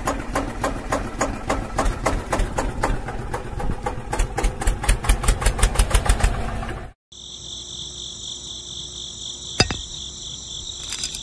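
Quick, even mechanical knocking, like a small tractor engine putting along, that speeds up over about seven seconds and then cuts off suddenly. A steady high-pitched whine with a low hum under it follows, with a single sharp click partway through.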